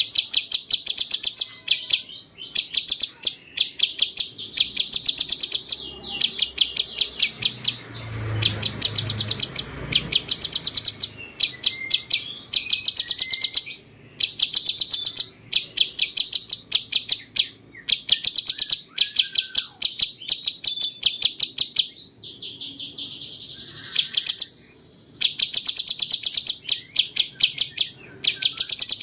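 Cucak cungkok bulbul singing its fast, harsh, rapid-fire song, a cucak-jenggot-like style: high rattling trills in bursts of about a second with short pauses between. About 22 seconds in comes a longer, steady buzzy note.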